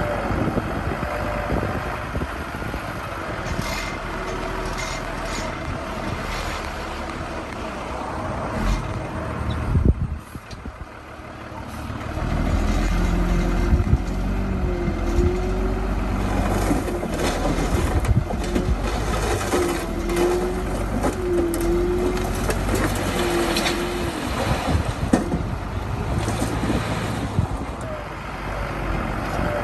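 Heavy construction machinery running: a steady diesel engine, which dips briefly about a third of the way in, then comes back heavier with a low rumble and a wavering whine.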